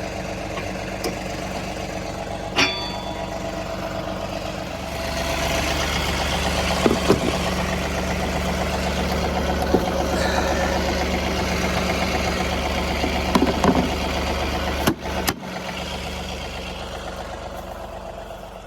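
John Deere 3038E compact tractor's three-cylinder diesel engine running steadily, picking up speed about five seconds in and easing back down near the end. A few short metallic clanks sound over it.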